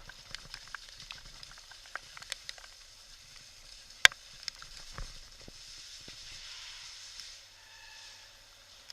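Specialized FSR full-suspension mountain bike rolling down a wet, rough trail in heavy rain: a steady hiss with scattered clicks and rattles, and one sharp knock about four seconds in. A brief faint squeal comes near the end.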